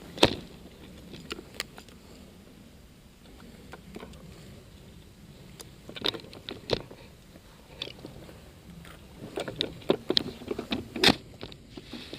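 Irregular crunches, scrapes and sharp clicks of a player moving through dry undergrowth, footsteps and gear brushing, heard close on a head-mounted camera; the sounds come thicker about three-quarters of the way through.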